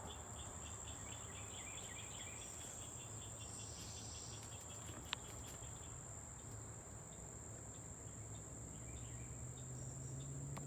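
Crickets chirping: a steady high-pitched trill with a faster pulsing chirp over it that fades about halfway through. A single sharp click about halfway in, and a low hum that rises in pitch near the end.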